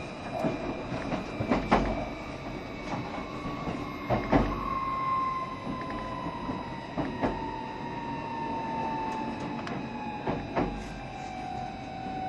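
Onboard sound of a 7200 series electric train with its motor whine falling steadily in pitch as the train slows, over the rumble of the wheels. Sharp clacks from rail joints come through it, more of them in the first half.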